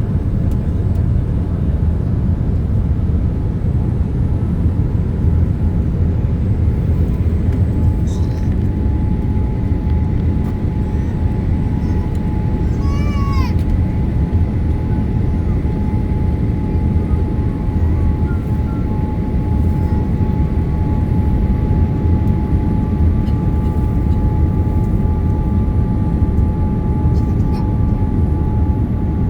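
Steady low rumble of cabin noise inside a Boeing 787 Dreamliner, from the engines and the airflow, with a steady whine running through it. A second, higher whine comes in about two-thirds through, and a brief run of quick chirps comes about halfway.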